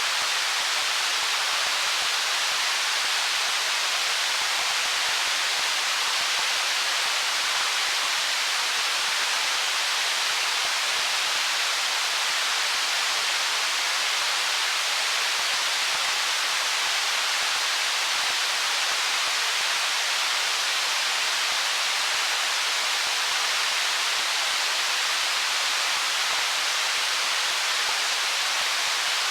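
Stream water rushing steadily over stones, an even hiss with no separate splashes.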